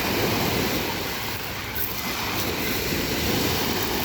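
Black Sea surf washing onto a pebble beach: a steady, even wash of waves.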